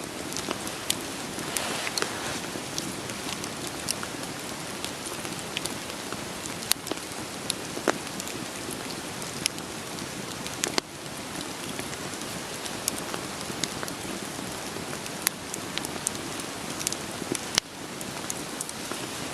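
Steady rain falling, with a wood fire crackling over it in scattered, irregular sharp pops and snaps.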